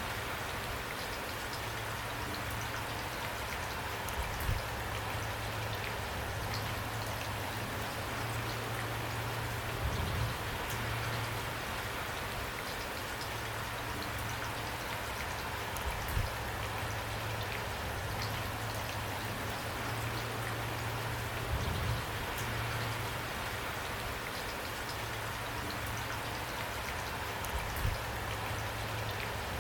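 Steady rain falling, a constant hiss with individual drops ticking through it. A soft low thud comes about every six seconds.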